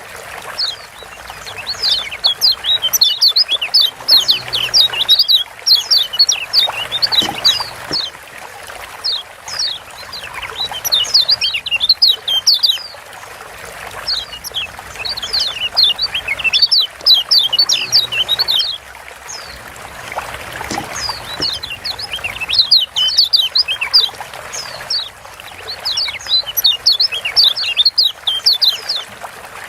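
Lombok yellow white-eye (kecial kuning) giving rapid, sharp 'ciak' chirps in repeated bursts of a few seconds each, the fast 'ciak joss' call used to rouse quiet white-eyes into singing.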